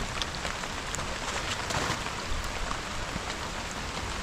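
Steady rain falling on surfaces, an even hiss with a few faint drop hits.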